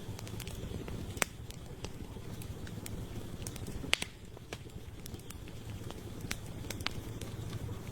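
Campfire burning: a steady low rumble of flames with scattered crackles and pops of firewood, the two sharpest pops about a second in and near the middle.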